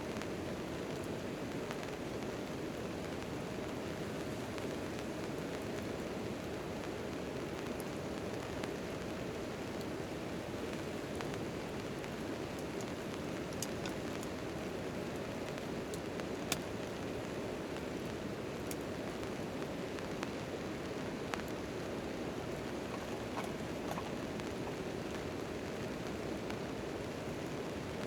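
Steady rain falling on a tent tarp, with a few sharp clicks scattered through it.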